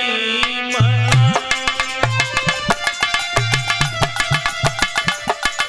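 Instrumental interlude of Indian devotional folk music: a held sung note ends about a second in, then hand drums in the tabla style play a fast, even rhythm with deep pitched strokes under a steady held melody note.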